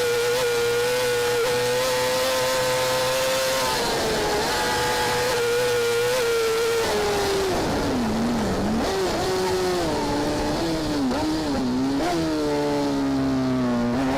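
Racing motorcycle engine at high revs, holding a steady high note for about six seconds, then the revs fall and waver up and down through the second half before climbing again near the end.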